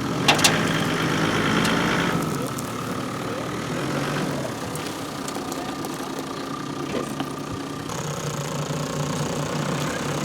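Off-road vehicle's engine running at low revs, louder for about the first two seconds. A couple of sharp knocks come just after the start.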